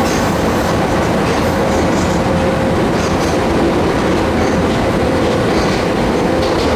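Kobe Electric Railway 1100 series electric train running at steady speed, heard from inside the passenger car: a steady, loud rumble of wheels and running gear with a thin, steady hum running through it.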